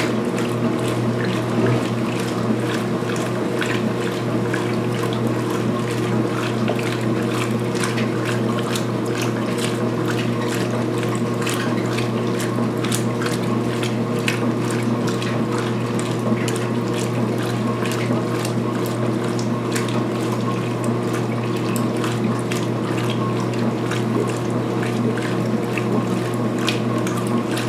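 2016 Speed Queen washer agitating at high speed in a load of towels: a steady motor and drive hum with water churning and a fine clatter of the mechanism, kicking in just before and holding even.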